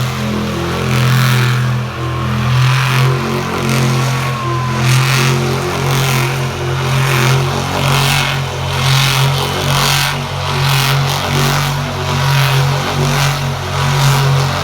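A monster truck's engine running hard at steady high revs, its note held nearly level throughout.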